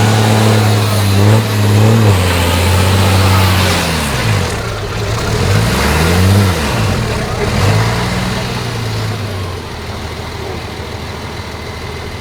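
Liaz 4x4 off-road truck's diesel engine running hard, then its pitch falling and rising several times as the throttle is worked, before dropping to a quieter, lower running level near the end.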